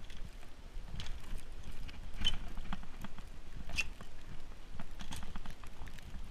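Irregular crunching steps in fresh, deep snow, with a few sharper crunches standing out about a second, two, three and a half and five seconds in, over a low rumble.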